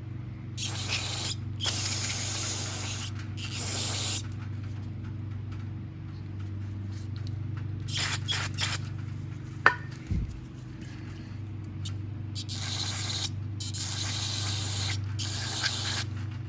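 Aerosol cleaner sprayed in about seven short hissing bursts of roughly a second each, over a steady low hum; a single sharp click just past the middle.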